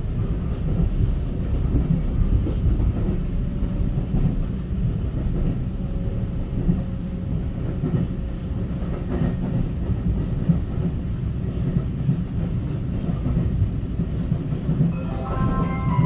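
Taiwan Railway EMU900 electric multiple unit running along the line: a steady low rumble of wheels on rail with occasional clicks. A short electronic melody of a few notes begins just before the end.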